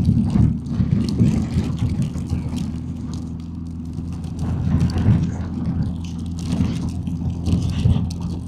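BMW R1250GS Adventure's boxer-twin engine running at a steady, low road speed, with wind noise flickering over it.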